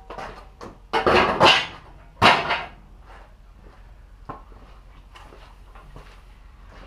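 Workshop handling noise: two loud scraping clatters, about a second in and again just after two seconds, followed by scattered light knocks and taps.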